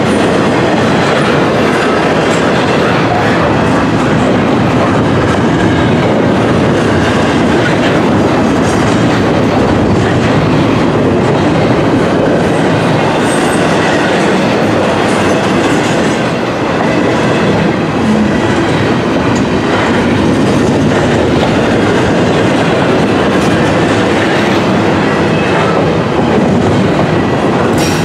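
Double-stack intermodal well cars rolling past at close range: a steady, loud noise of steel wheels running on the rails, with no locomotive heard.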